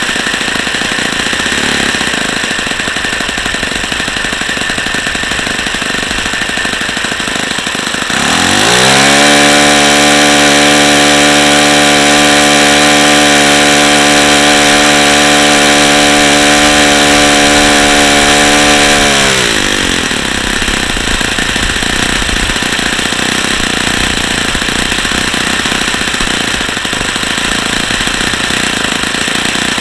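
Saito FA-45 four-stroke glow model engine running with a propeller. About eight seconds in it is opened up: the pitch rises quickly to a steady, louder high speed, holds for about eleven seconds, then drops back to a lower speed. The owner judges the engine worn out, with bearings that are shot and can be heard in its sound.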